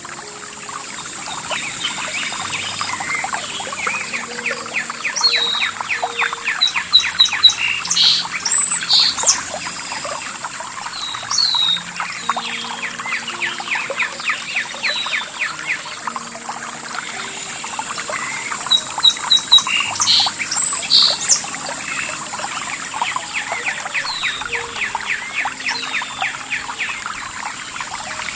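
Several songbirds singing and chirping, with fast trills and short swooping calls, over a steady trickle of running water.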